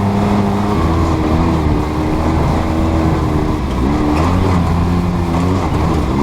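Off-road vehicle engine running at a steady, even speed, its pitch shifting down a step about a second in and wavering briefly later.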